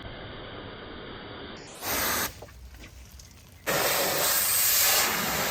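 High-pressure water jet from a pressure washer spraying a surface, a steady hiss. It starts fainter, breaks in loud briefly about two seconds in, drops away, then runs loud and steady from just past halfway.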